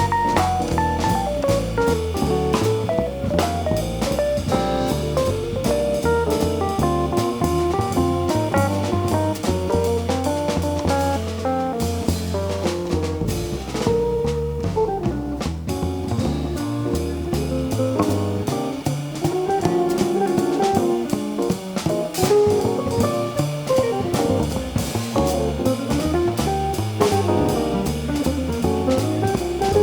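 Live jazz band playing: a melodic instrument line over walking bass and drum kit, with guitar.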